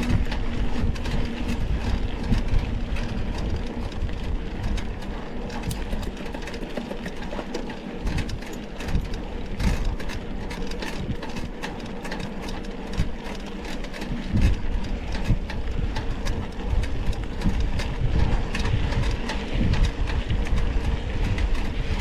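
Mountain bike ridden over a rough dirt trail: continuous wind rumble on the microphone with frequent clicks, knocks and rattles from the bike and tyres on the ground.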